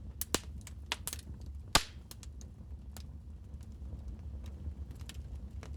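Wood fire crackling in a fireplace: irregular sharp pops and snaps, the loudest a little under two seconds in, over a low steady rumble.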